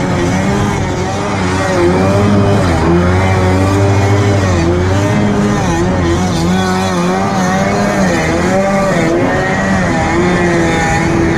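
Two-stroke stand-up jet ski engine being ridden, its pitch rising and falling again and again as the throttle is worked.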